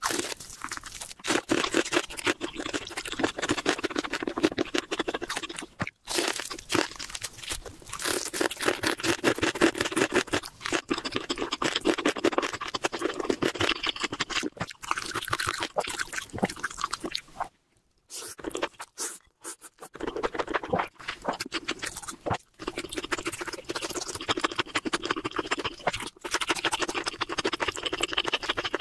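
Close-miked eating sounds: crunchy bites and chewing of crispy pork belly, a dense crackling crunch that stops briefly a few times.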